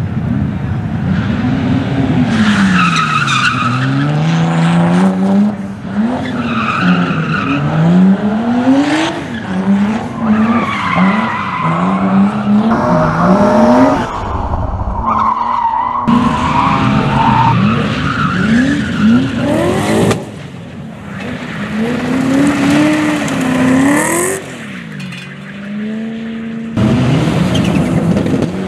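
Rally car engine driven hard around a circuit, its revs climbing and dropping again and again through gear changes and lifts, with tyres squealing at times. The engine falls away about two-thirds of the way through and comes back loud suddenly near the end.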